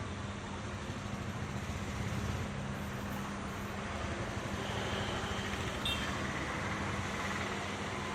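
Large diesel coach bus engine running steadily, a constant low hum over a rumble, with a single sharp click about six seconds in.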